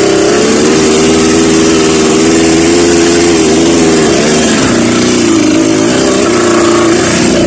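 Off-road vehicle engine running under load at fairly steady revs, the pitch wavering with the throttle and dipping briefly twice in the middle.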